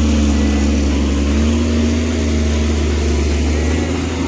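Komatsu excavator's diesel engine running steadily under work, its pitch sagging slightly and recovering about a second and a half in.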